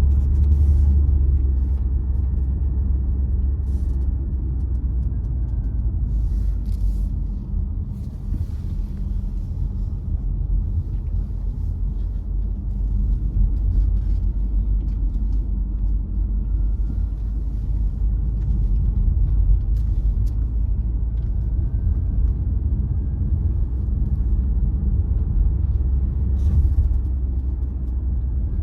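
Car driving along a winter road: a steady low rumble of tyres and engine, with a faint whine that slowly rises and falls and scattered light clicks.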